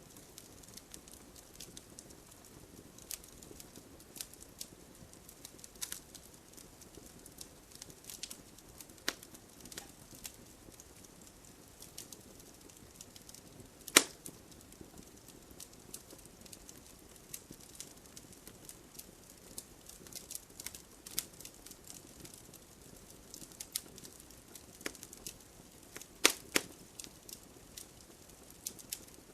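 Wood fire in a fireplace crackling: irregular sharp pops and snaps over a soft low hiss, the loudest pop about 14 seconds in and a quick run of pops near the end.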